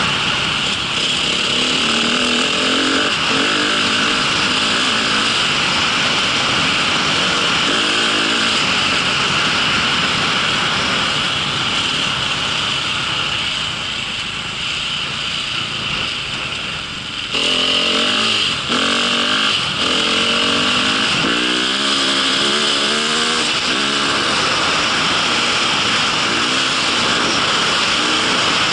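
A motor vehicle's engine running continuously, its pitch rising and falling as the revs change, under a steady rushing noise. The engine is loudest again from about 17 seconds in, after a brief quieter stretch.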